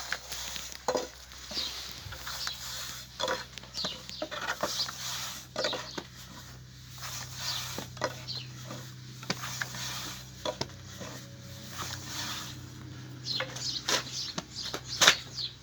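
Metal utensils knocking and scraping against cookware in an irregular series of clinks, with birds chirping in the background.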